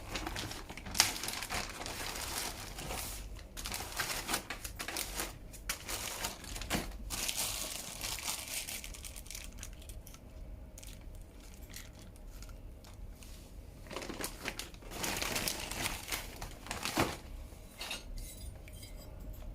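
Rustling and crinkling with scattered light metallic clinks and clicks: bicycle crankset parts being handled and unwrapped by hand, with one sharper click about a second in and another near the end.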